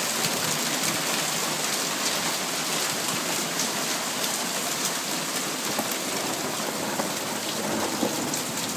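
Hail and heavy rain pounding down steadily: a dense hiss dotted with sharp ticks of hailstones striking.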